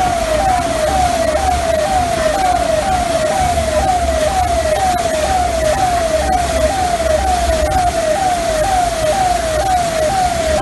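A siren sounding a fast repeating falling tone, about two sweeps a second, over steady hiss and an on-and-off low rumble.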